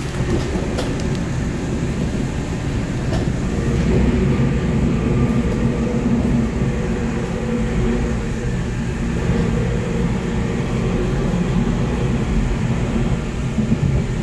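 Steady rumble inside a moving electric train's carriage by the doors: wheels and running gear, with a few light clicks about a second in.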